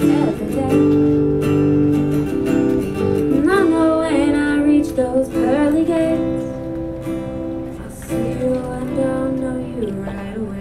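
Strummed acoustic guitar with a woman singing long, wavering held notes in the middle, as the song draws to its close.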